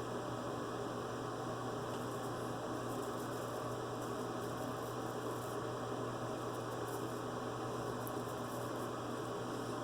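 Steady electrical hum and hiss. Faint, irregular crackling from a straight razor scraping through lathered stubble sits over it.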